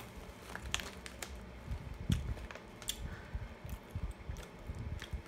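A person chewing a mouthful of nuts, with irregular crunches and clicks.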